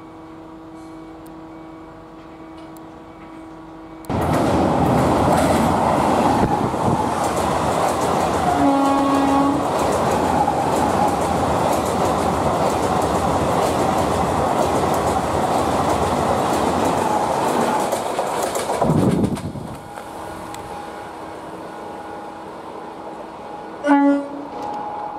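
Indian Railways trains, heard in cut-together shots. First a steady hum from an approaching suburban multiple-unit train. Then a sudden switch to a passenger train passing close with a loud rolling rush from its coaches and wheels, and a short horn blast about nine seconds in. After that, the quieter steady hum of another multiple-unit train approaching, which gives a short, loud horn blast near the end.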